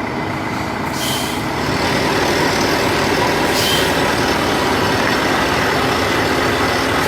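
Heavy truck running on the road: a steady engine and road noise that grows a little louder about two seconds in, with three short hisses roughly two and a half seconds apart.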